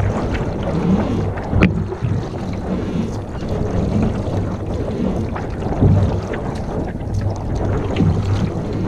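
Wind buffeting the microphone over water sounds from a canoe on a lake, with a few brief knocks, the sharpest about one and a half seconds in.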